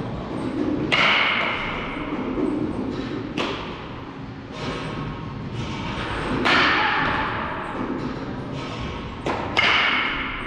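Baseball bat striking balls, one sharp ringing crack every two to three seconds, with two hits close together near the end, echoing in a large room.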